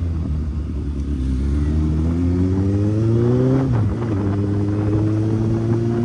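Kawasaki Z800's inline-four engine under way, rising steadily in revs, then dropping sharply in pitch at an upshift nearly four seconds in and running on at an even speed.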